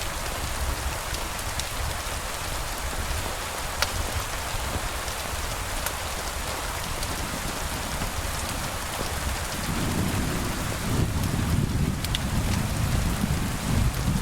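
Steady rain hissing, with a few sharp ticks scattered through it. About ten seconds in, a low rumble of distant thunder swells up under the rain and keeps rolling.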